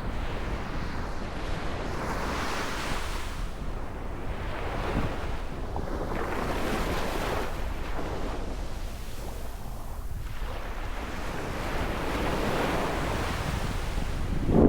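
Sea waves washing in, the surf rising and falling every few seconds, with wind buffeting the microphone as a steady low rumble.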